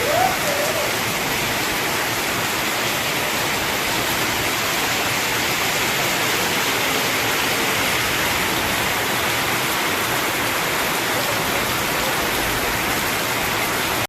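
Steady rain falling, a continuous even hiss of raindrops on surfaces.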